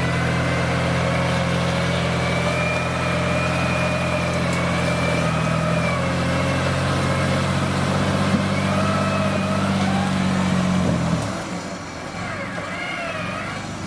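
Off-road SUV engine pulling steadily under load as the vehicle crawls over an obstacle, then easing off sharply about eleven seconds in.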